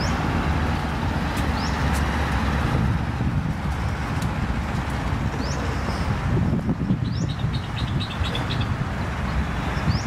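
Steady low outdoor rumble with a small bird calling over it: short rising chirps several times and a quick run of clipped notes about seven seconds in.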